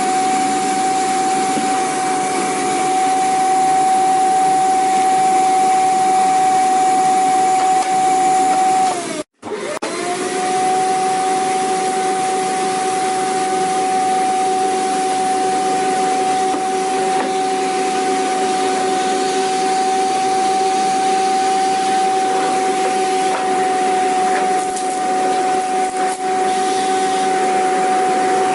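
Vacuum cleaner motor running with a steady rushing sound and a constant whine. About nine seconds in, the whine sags in pitch and the sound cuts out for a split second, then returns and settles back to the same steady pitch.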